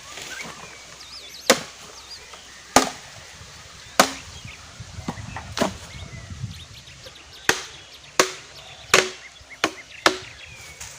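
Wood being chopped by hand with a blade: about nine sharp blows, spaced a second or more apart at first and coming quicker near the end.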